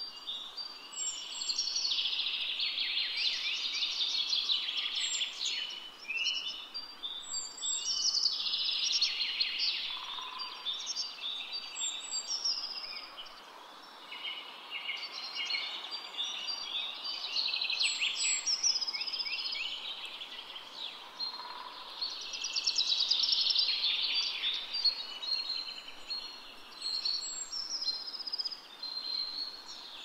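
Birds singing in repeated phrases of rapid notes a few seconds long, with short pauses between, over a faint steady outdoor hiss.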